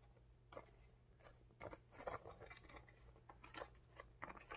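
Faint, irregular snips and crackles of plastic food packaging being cut and worked open.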